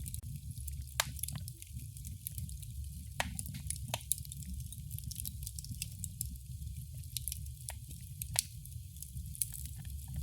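Wood fire crackling in a fireplace: a steady low rumble of flames under constant fine crackles, with a handful of louder sharp pops.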